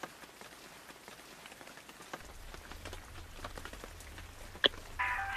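Light rain patter, scattered drops ticking over a soft hiss, as the opening of a song. A low hum comes in about two seconds in, a single sharp pitched drip sounds near the end, and soft synth chords enter just before the end.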